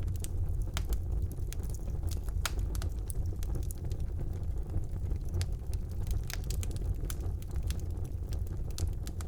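Wood fire burning in a fireplace: a steady low rumble of the flames, with frequent irregular sharp crackles and pops from the burning logs.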